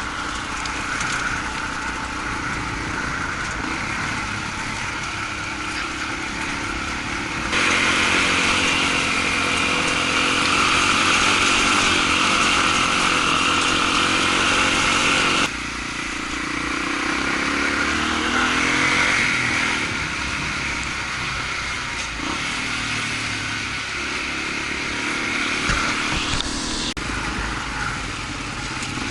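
Honda XR250's single-cylinder four-stroke motorcycle engine running while under way, mixed with a steady rushing noise. The sound jumps abruptly twice, getting louder about seven seconds in and dropping back about fifteen seconds in, and the engine pitch rises once soon after the drop.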